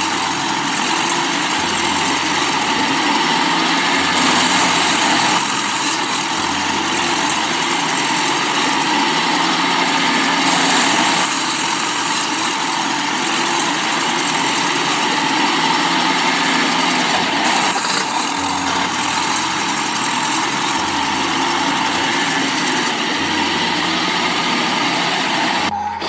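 Steady engine idling sound with a low pulse repeating about every two and a half seconds, cutting off near the end.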